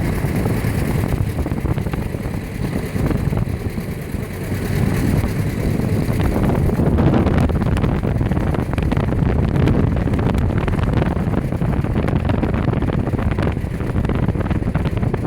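Tractor engines running together in a steady low rumble, with wind buffeting the microphone. The sound grows a little louder about six seconds in.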